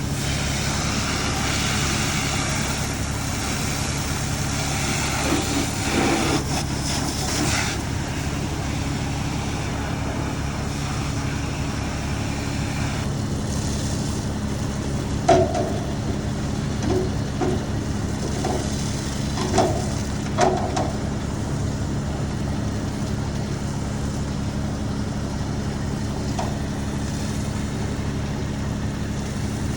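A fire engine's diesel engine runs at a steady drone while pumping water. A loud hiss sounds for about the first eight seconds, and a few short knocks and clatters come in the middle.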